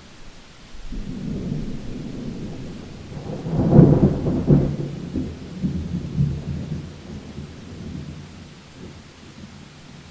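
A thunder rumble over steady rain: it builds about a second in, peaks with its loudest crack about four seconds in, then rolls on and fades away.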